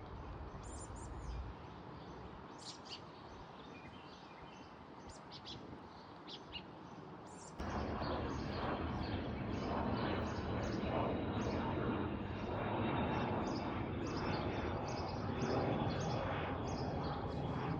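Birds chirping in short, repeated calls over a steady rushing background noise that suddenly becomes louder and fuller about seven and a half seconds in.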